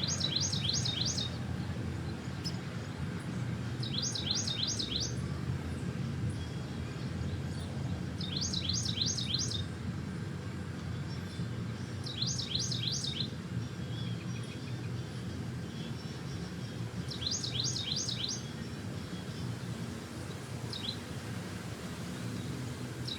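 A songbird singing a short phrase of about five or six quick, high, down-slurred notes, repeated about every four seconds, over a steady low rumble.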